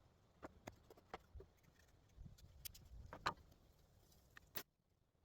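Faint, scattered light knocks and clicks of wood being handled as a dowel perch is fitted into a wooden bird feeder.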